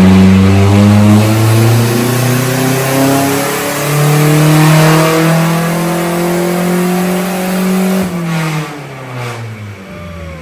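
Turbocharged Nissan Hardbody pickup's engine on a wide-open-throttle dyno pull, revs climbing steadily for about eight seconds. Near the end the throttle is let off and the revs fall away as the engine and rollers wind down.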